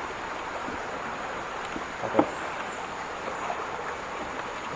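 Steady outdoor background hiss with a thin, high insect drone running through it, and a single short knock about two seconds in.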